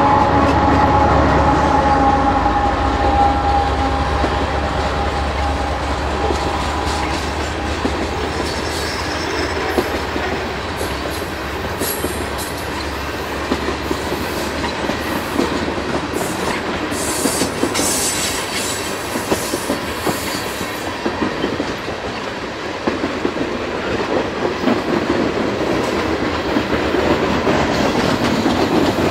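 Mid-train Kansas City Southern diesel locomotive passing under power, its low engine rumble and steady whine fading over the first few seconds. Loaded tank cars then roll by, wheels clicking and clattering over the rail joints, with short high-pitched wheel squeals now and then.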